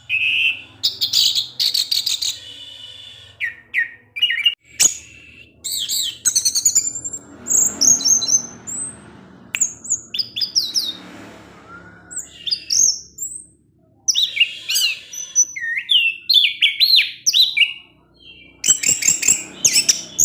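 Orange-headed thrush singing a long, varied song of quick high chips, twitters and rapid trilled runs, broken by short pauses.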